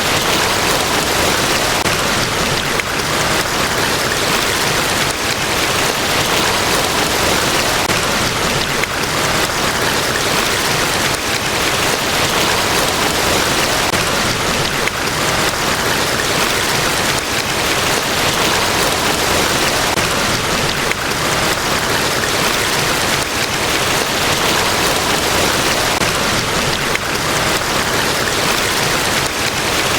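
Niagara Falls: the steady, unbroken rush of a large waterfall, heavy falling water with no change in level.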